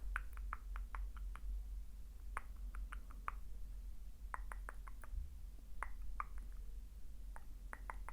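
ASMR mouth sounds close to the microphone: a quick, irregular series of small wet lip and tongue clicks in little clusters, over a steady low microphone hum.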